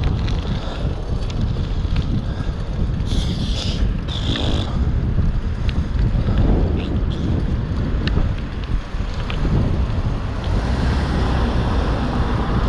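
Wind buffeting an action camera's microphone during a fixed-gear bike ride, with a low rumble of road noise. A couple of brief hissing bursts come about three to four seconds in.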